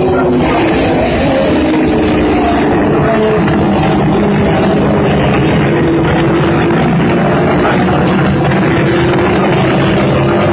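Racing car engines running at high revs on a circuit: a loud, steady note whose pitch drifts gently up and down.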